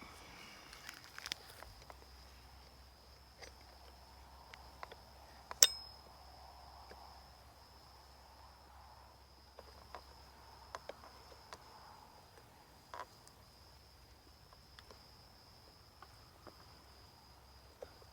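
A steady high-pitched insect trill, with scattered small clicks of the chainsaw's parts being handled and one sharp metallic click about five and a half seconds in.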